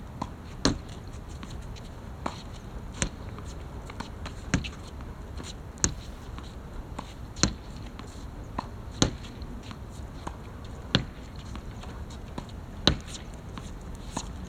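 Sharp, single hits of a badminton racket striking shuttlecocks, irregularly spaced about one every one to two seconds, the loudest near the end.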